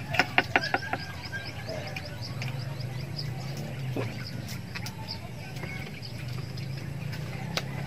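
A small bird chirping in a rapid run of short high notes, about five a second, over a steady low hum. A quick run of sharp clicks in the first second is the loudest sound.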